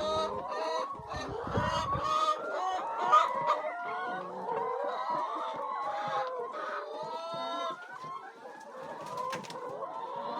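A flock of chickens clucking inside a chicken house, with many short calls overlapping continuously.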